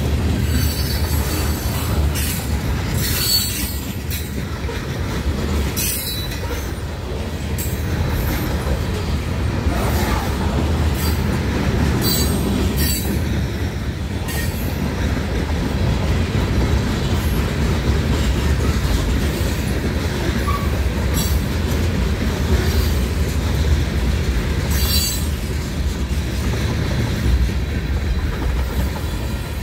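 Freight cars of a Lake State Railway train rolling past at a grade crossing: a steady low rumble of steel wheels on rail, with sharp clacks at irregular intervals as the wheels pass over the rail joints.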